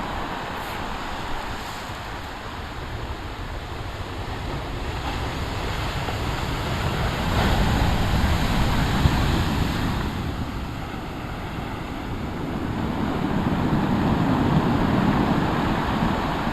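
Waves breaking and washing against the shore, the surf swelling twice, with wind buffeting the microphone.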